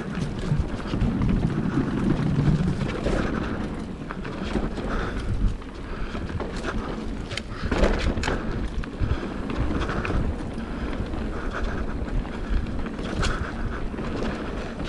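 Mountain bike ridden along a dirt trail, heard from a GoPro mounted on the rider or bike: wind buffeting the microphone and tyres rumbling over the ground, with scattered sharp knocks and rattles from the bike over rough terrain.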